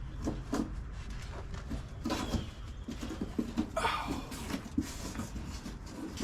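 Air filter elements being handled and fitted into an excavator's air cleaner housing: scattered light knocks, clicks and rubbing, with brief louder scrapes about two and four seconds in.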